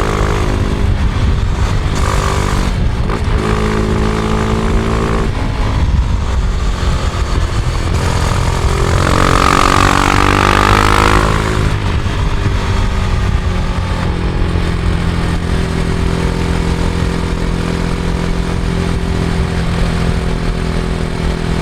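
Husqvarna Vitpilen 701's single-cylinder engine running under way, its pitch stepping up and down as the revs change. About nine seconds in it revs up with a rush of wind noise, then drops back and holds a steady note.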